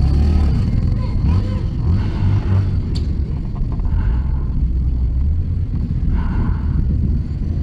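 Steady low rumble of a motor vehicle running, with indistinct voices now and then.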